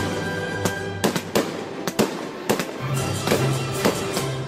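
Aerial fireworks bursting in a rapid series of sharp bangs, roughly two a second, over background music with steady bass notes.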